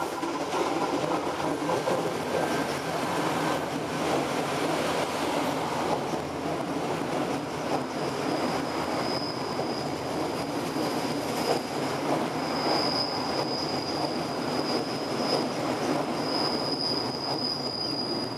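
Irish Rail 29000 class diesel multiple unit passing close by, with a steady rumble of its engines and its wheels on the rails. From about halfway through, a thin, steady, high-pitched wheel squeal joins it as the train runs round the curve.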